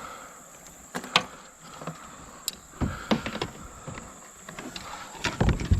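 Scattered knocks, clicks and thumps of gear and a landed fish being handled in a kayak, the loudest thumps about three seconds in and near the end, over a steady high-pitched tone.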